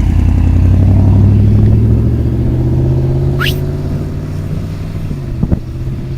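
A motor vehicle's engine running close by, loudest about a second in and then gradually fading. A brief rising squeak comes about halfway through, and a sharp click near the end.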